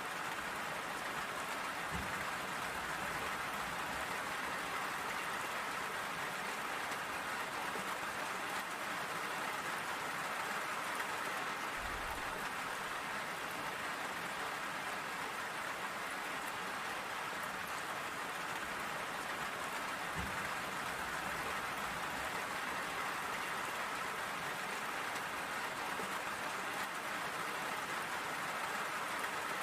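Steady rain falling and pattering on surfaces, an even hiss with no let-up, with a soft low thud three times.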